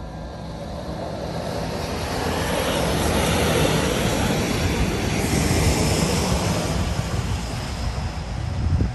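Freight train hauled by diesel locomotives passing, a heavy engine drone under broad rolling noise that grows louder over the first few seconds and then stays loud.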